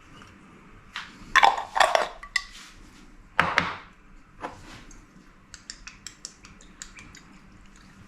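Cutlery and dishes clinking and clattering: a few louder clattering knocks in the first half, then a quick run of light ticks.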